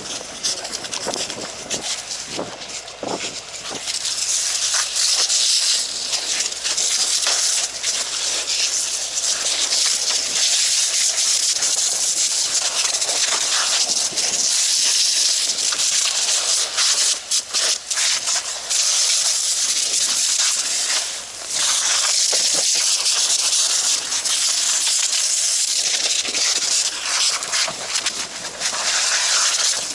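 Fire hose nozzle spraying water: a loud, steady hiss that starts about four seconds in, with a few brief breaks around the middle.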